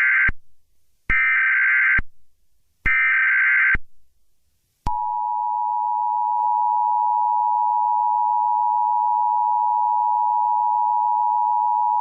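Emergency Alert System tones: three harsh, buzzing SAME data bursts, the first already under way, then after a short gap the steady two-tone attention signal. It is the warble that comes just before an emergency broadcast message is read.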